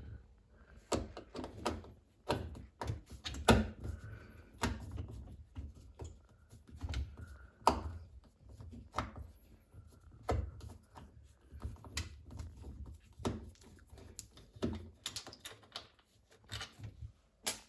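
Torx T15 screwdriver working screws out of a wooden cabinet front fixed to a dishwasher door: irregular clicks and knocks of tool, screws and panel, about one a second.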